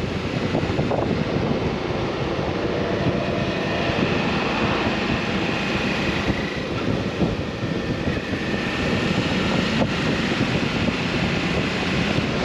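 Suzuki V-Strom motorcycle being ridden at road speed, its engine running steadily under a heavy rush of wind on the microphone.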